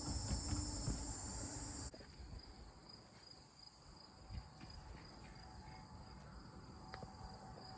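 Faint outdoor ambience dominated by a steady, high-pitched insect drone like crickets, with some low rumble in the first two seconds. The sound changes abruptly about two seconds in and stays quieter after.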